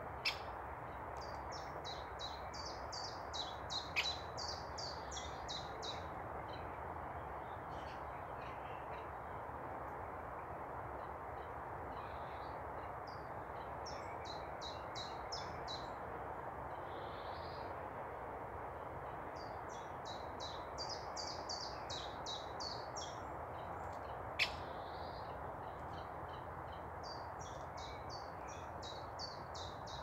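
A songbird singing: four phrases of quick, high, repeated notes, each lasting two to three seconds, with pauses between. Under the song runs a steady rushing background noise, and a few sharp clicks stand out, the loudest about 4 and 24 seconds in.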